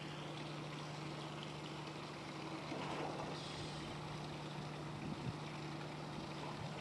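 Docked ferry's engine idling with a steady low hum, over a haze of wind and water noise.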